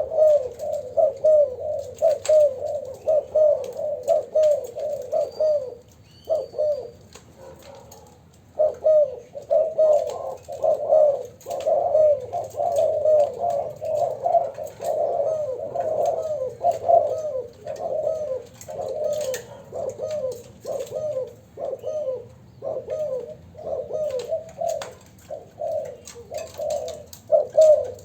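Two young spotted doves cooing over and over in quick, overlapping phrases. There is a brief pause about six seconds in, then the cooing resumes.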